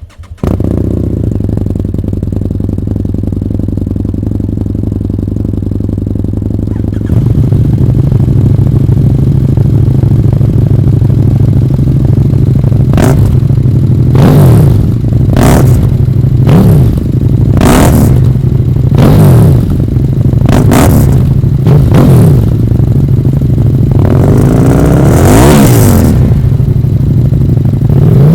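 Big twin-cylinder motorcycle engine with an aftermarket exhaust firing up and idling, getting louder about seven seconds in, then revved in a string of short throttle blips that rise and fall, with a longer, higher rev near the end.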